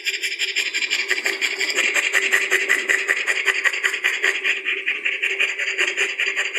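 An animal's rapid, steady chattering, about ten pulses a second, over a low steady tone.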